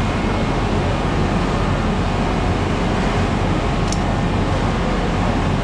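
Heavy concrete truck engine running steadily, a constant loud drone with a low hum underneath.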